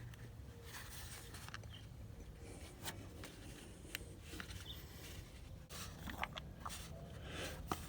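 Faint scattered clicks and small plastic handling sounds, with a few brief squeaks, from a bottle of supercharger oil being squeezed into the supercharger's fill hole.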